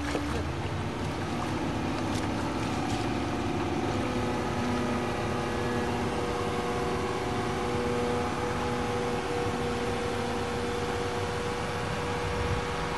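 An engine running steadily at a constant pitch, holding an even hum.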